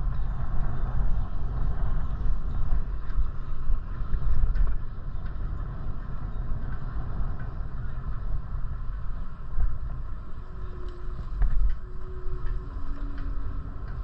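Wind and road noise picked up while riding a bicycle: a steady, gusting low rumble with a few faint ticks.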